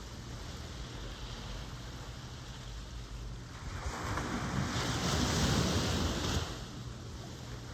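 Ocean surf: a steady wash of water, with one wave building about three and a half seconds in, breaking louder for a couple of seconds, then dropping away.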